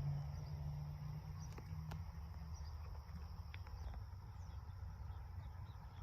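Crickets trilling steadily, over a low rumble and a few light clicks.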